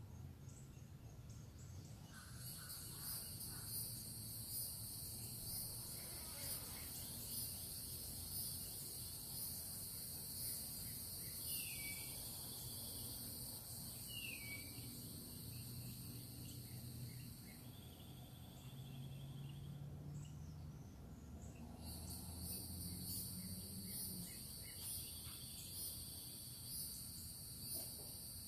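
Insects trilling in a high, steady, finely pulsing chorus, which stops for a few seconds midway and then starts again. A bird gives a few short, falling chirps now and then.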